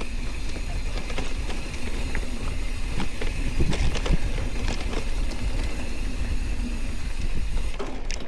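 Riding noise from a mountain bike on a dirt trail: steady low wind rumble on the microphone with tyre noise and scattered clicks and rattles from the bike, busiest about three to four seconds in.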